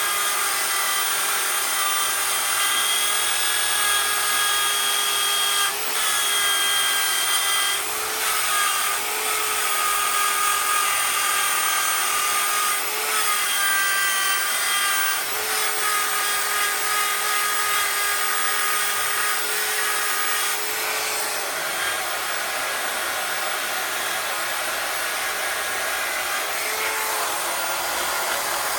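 Power tool running steadily with a high whine while it polishes a Porsche 911 SC engine case; its pitch wavers slightly and dips briefly a few times.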